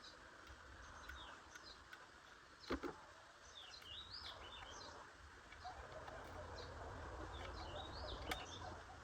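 Small birds chirping faintly in short, quick repeated phrases over a low background rumble. A sharp knock comes about three seconds in and another near the end.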